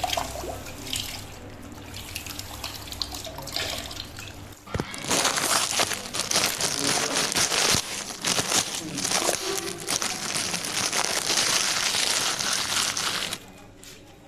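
Water splashing and pouring as a plastic bag of coloured water is handled and emptied, with plastic crinkling. The splashing is softer at first, turns loud and busy about five seconds in, and stops suddenly near the end.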